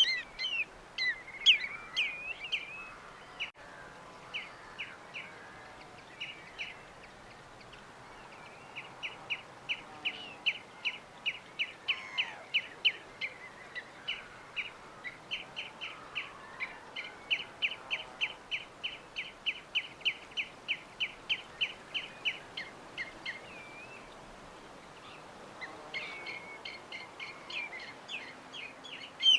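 Small songbirds chirping over a faint steady background hiss. A flurry of quick chirps comes at the start and again near the end, and in between one bird repeats a short chirp about three times a second for some fifteen seconds.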